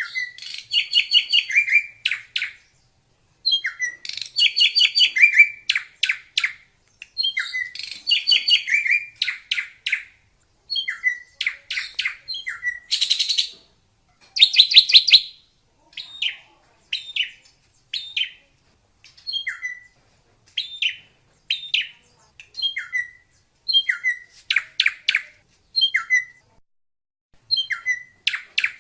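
Drongo singing: phrases of quick, high notes, some sweeping up or down in pitch, repeated every few seconds with short pauses between them.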